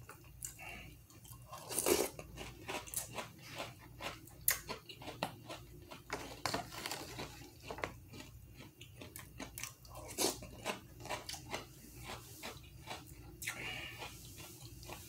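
A person chewing a mouthful of crunchy Toast Crunch cereal: a run of irregular crunches, the loudest about two seconds in and about ten seconds in.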